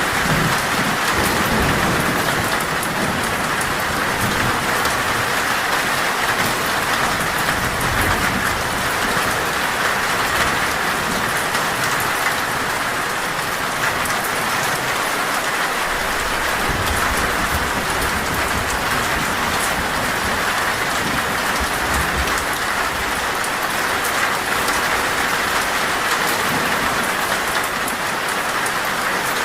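Heavy, steady rain falling on a metal roof, with low rumbles of thunder a few times.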